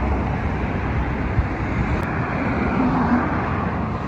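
Steady rushing noise of moving vehicles, even and without distinct events, cutting off abruptly at the very end.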